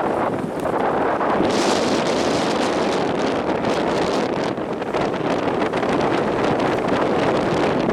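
Typhoon Bavi's strong wind blowing hard and buffeting the microphone, with a stronger gust about one and a half to three seconds in.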